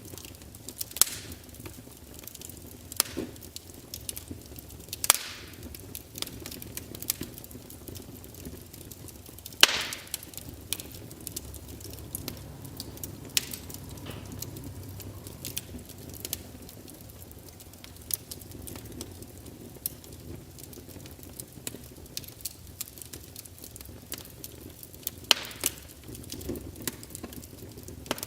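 Wood fire crackling: irregular sharp pops and snaps of burning wood, a few louder cracks standing out, over a soft steady hiss.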